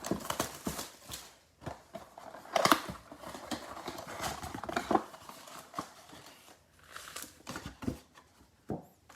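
A trading-card box being opened by hand: irregular crinkling and tearing of its plastic wrap and cardboard, with a few sharper snaps.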